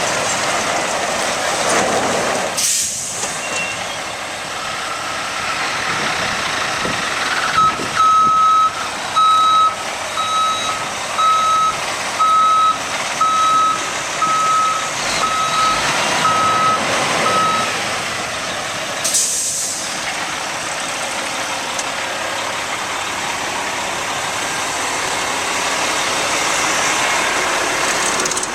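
Truck backup alarm beeping at one steady pitch, about once a second, around ten beeps in a row over a steady engine and yard noise. A short hiss of air, typical of an air-brake release, comes near the start and another shortly after the beeping stops.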